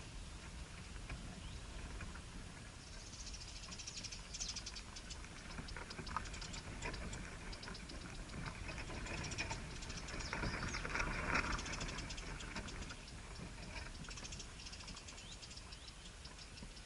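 Small birds at their nest: rapid light scratching and rustling clicks, with a louder hissing stretch about two thirds of the way in.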